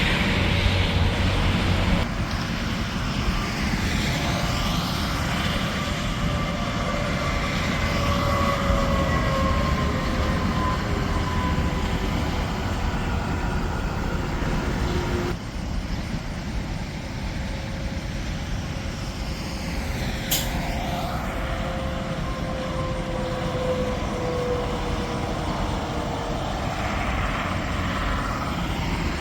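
Interstate highway traffic: trucks and cars passing at speed, a steady rush of tyre and engine noise with tones that slowly fall in pitch as the vehicles go by. The sound changes abruptly about two seconds in and again about halfway, and there is a brief sharp tick near the end.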